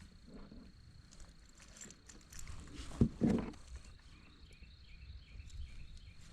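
Scattered small clicks and rustles of handling in a kayak, with one sharp knock about three seconds in, the loudest sound, followed by a brief scuffle. A faint steady high tone sits underneath.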